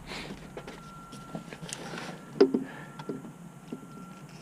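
Light scattered clicks and taps of the starter cable and metal parts being handled during a starter installation, with one sharper knock about two and a half seconds in.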